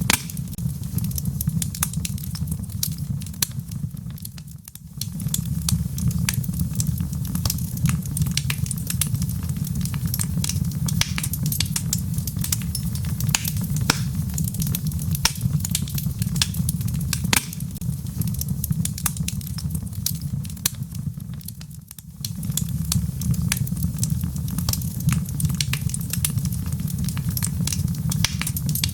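Wood fire in a fireplace crackling, with frequent sharp pops and snaps over a steady low rumble of flames. Twice the rumble briefly fades for about a second.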